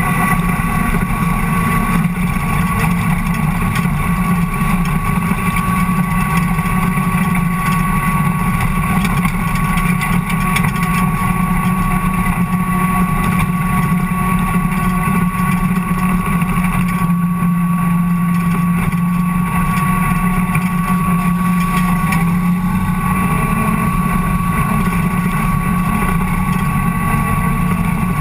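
Ford Cortina race car's engine running steadily under racing load, heard from inside the caged cabin, with a steady thin whine over it.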